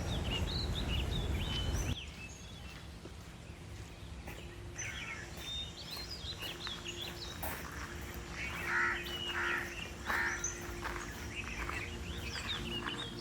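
Small birds chirping and calling over steady outdoor background noise, with a few louder calls around nine to ten seconds in. A low rumbling noise in the first two seconds stops abruptly.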